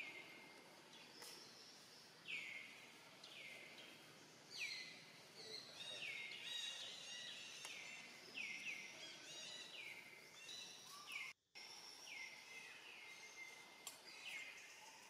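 Birds calling outdoors: a series of short repeated chirps, each sliding down and then briefly holding, sometimes overlapping, over a faint steady background. The sound cuts out completely for a moment about eleven seconds in.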